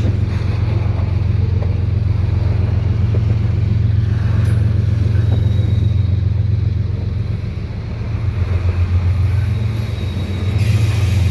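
GE ES44AC diesel locomotive, working as a mid-train distributed power unit, pushing hard under heavy load: a deep, steady engine rumble that pulses in a throb about eight seconds in.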